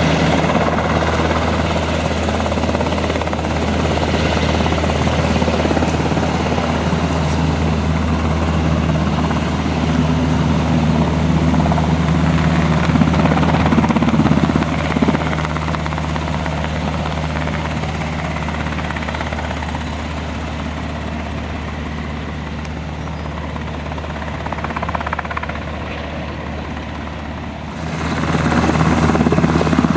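Military helicopter running steadily on the ground or close by, a continuous low engine and rotor drone with turbine hiss above it. The sound eases off through the second half, then comes back louder all at once near the end.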